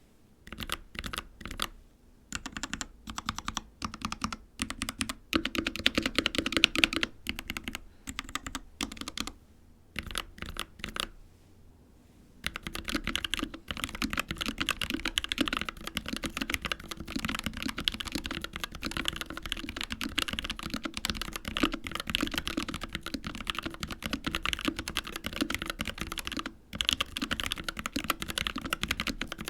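Typing on a Dark Project KD083A mechanical keyboard with Gateron Cap Teal switches. It starts with single keystrokes and short runs, pauses briefly about halfway, then goes into steady fast typing.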